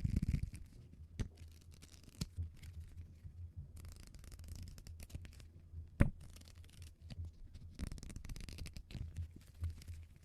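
Close-miked, sped-up scratching and rustling on a notebook, broken by a few sharp taps or clicks, one loudest about six seconds in, over a low steady hum.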